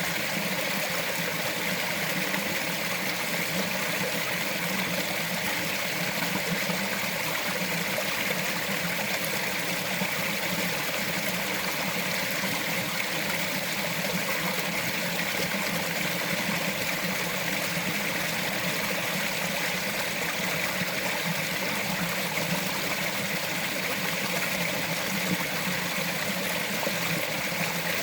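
Small mountain stream running over rocks: a steady burble and trickle of flowing water.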